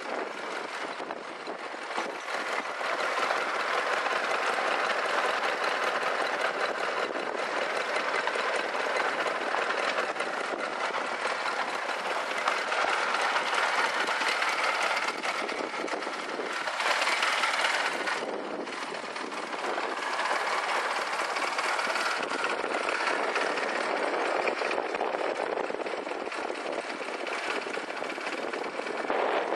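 Honda Rebel CA125's small air-cooled parallel-twin engine idling steadily, with a fast, even exhaust patter.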